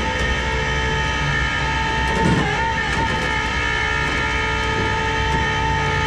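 Steady mechanical whine from vehicle machinery: several level pitched tones held over a low engine rumble, with a brief disturbance about two seconds in.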